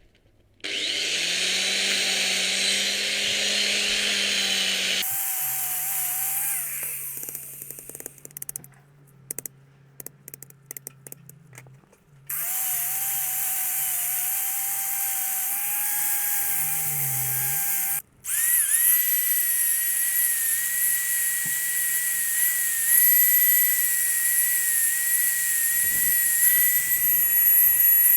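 Handheld power tool, an impact driver or drill, cranking a scissor jack's screw. It runs in long bursts with a steady motor whine, stopping briefly about five, twelve and eighteen seconds in.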